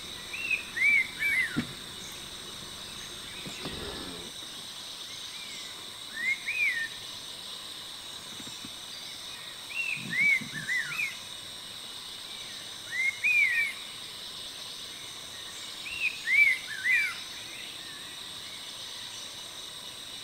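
A bird calling in short phrases of a few quick, arching whistled notes, about five phrases each three to four seconds apart, over a steady high insect drone.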